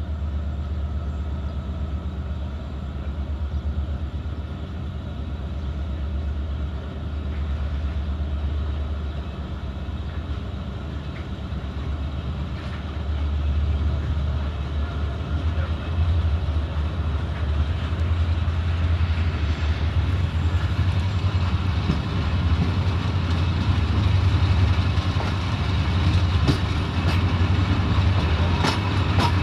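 Passenger train running on the rails, heard from aboard: a steady low rumble with wheel-on-rail noise that grows louder about halfway through, and a few sharp clicks near the end.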